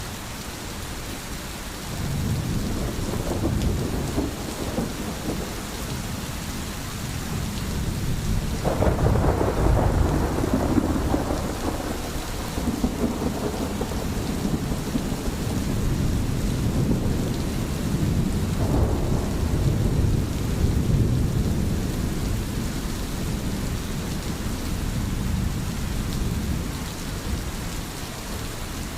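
Steady rain with rolling thunder: low rumbles swell up about two seconds in, loudest from about nine seconds in, and again around nineteen seconds.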